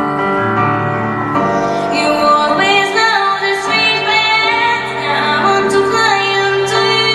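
Woman singing a slow ballad with accompaniment. Her voice comes in about two seconds in with long held notes and vibrato.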